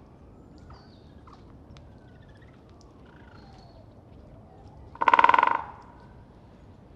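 Great spotted woodpecker drumming on an oak: one rapid roll of strikes lasting under a second, about five seconds in.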